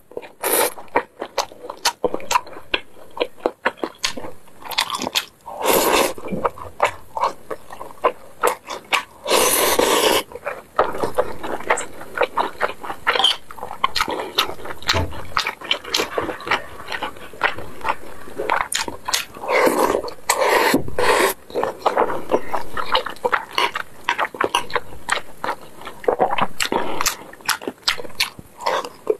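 Mouth sounds of eating braised pork belly over rice: wet chewing and lip smacking in a dense, irregular run of clicks, with a metal spoon scraping in the bowl now and then.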